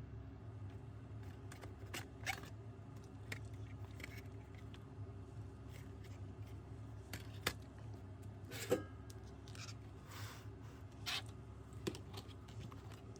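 Scattered light clicks and a few longer scrapes of small parts being handled by hand, over a steady low hum.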